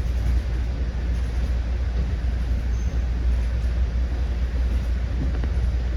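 Commuter train running at speed, heard from inside a passenger coach: a steady low rumble of wheels on the track with an even running noise over it.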